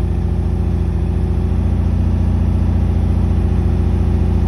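Porsche 914's air-cooled engine idling steadily, still warming up about a minute after a cold start, with an even low pulsing rumble.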